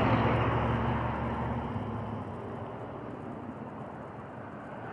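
A passing motor vehicle, its engine hum and road noise loudest at the start and fading away over the first two seconds, leaving a low background hum.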